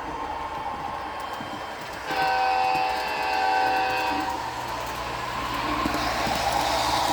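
HO-scale model train's sound-system horn sounding once for about two seconds, about two seconds in, over the steady running noise of the model train.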